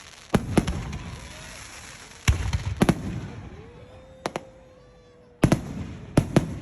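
Aerial fireworks bursting: about eight sharp bangs, several in quick pairs, with a brief crackle trailing after the first ones.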